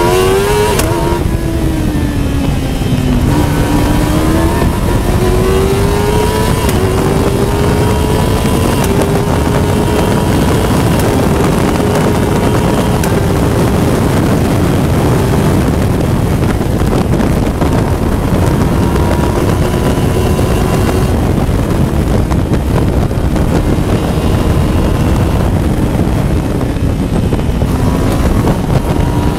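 Honda CBR1000RR inline-four superbike engine in a Westfield Megablade, heard from the open cockpit at high revs on track. It winds up in steps through the gears, holds high revs, drops about two-thirds of the way through as the car slows for a corner, then pulls again near the end, with heavy wind rush over it.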